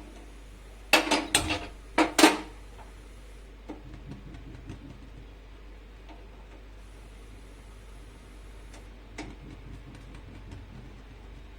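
Clicks and knocks of a gas stove being handled as its burner is lit and turned down to low, two loud clusters in the first few seconds and a single click near the end, with a faint steady hiss between.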